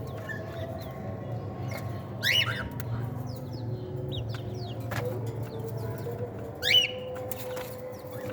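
Cockatiels chirping, with many short falling chirps and two louder falling calls, one about two seconds in and one near the end, over a steady low hum.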